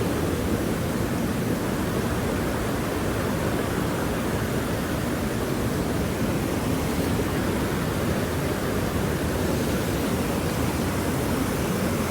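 Steady rush of creek water running past ice and rocks, an even low noise with no breaks.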